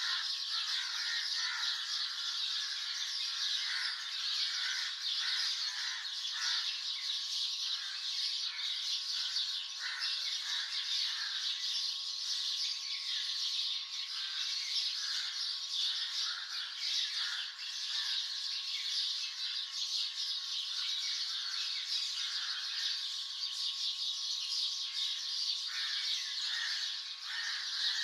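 Many songbirds chirping and calling at once in a dense morning chorus. Overlapping high chirps and whistles run without a break.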